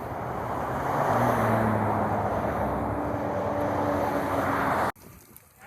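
A motor vehicle passing close by: engine and tyre noise swells over about a second and holds, then cuts off suddenly near the end.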